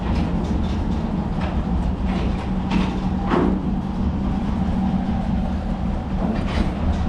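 Tractor engine running steadily, with scattered metallic knocks and rattles from the implement it is moving.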